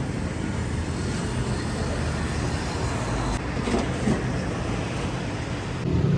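Steady roadside traffic noise: cars and other vehicles running past on a busy city road.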